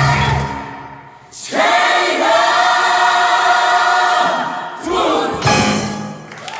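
Large gospel choir singing the closing chords of a song. A held chord fades out, a new chord is held for about three seconds, and a short last note ends it.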